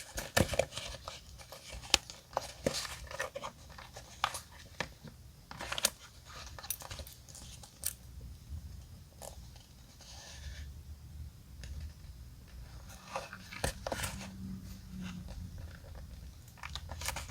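Paper-crafting sounds from decorating a passport journal: scattered sharp taps and clicks with rustling and crinkling of paper between them.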